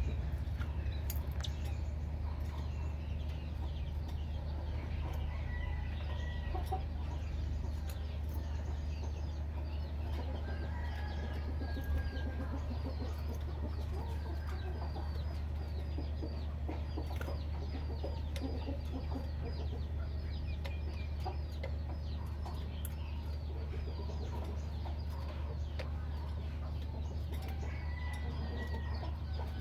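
Birds chirping busily: a dense stream of short, quick downward chirps with a few longer whistled notes, over a steady low hum.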